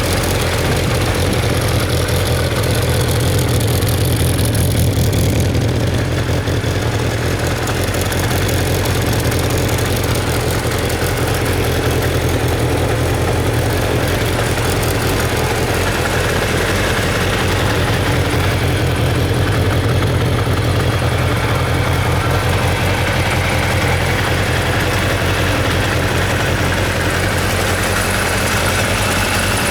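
Kawasaki Zephyr 750's air-cooled inline-four engine idling steadily.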